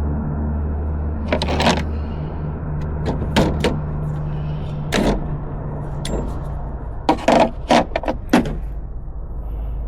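Steady low mechanical hum with sharp metallic clinks and knocks in small clusters, the sound of hard objects being handled.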